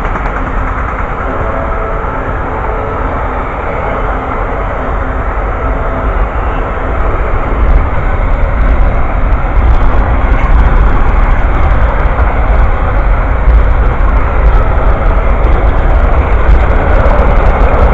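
Amtrak Auto Train passing close by at speed: a steady rumble of wheels on rail, louder about halfway through, with faint clicking over the rails.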